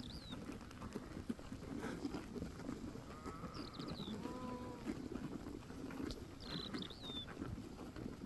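A few sheep bleats over a steady low background noise, with quick high chirps of small birds at the start, midway and again near the end.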